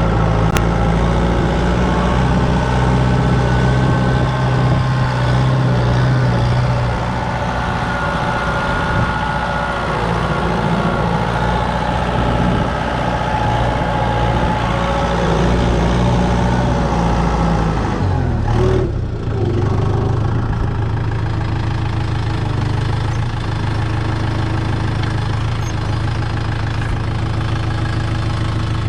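Kubota M6040 tractor's diesel engine idling steadily. A brief dip about two-thirds of the way through is followed by a change in its note.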